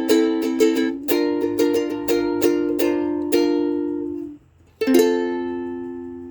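Acoustic plucked string instrument strumming a steady pattern of chords, which breaks off about four seconds in. One final chord is then struck and left ringing, slowly fading, as the closing chord of the song.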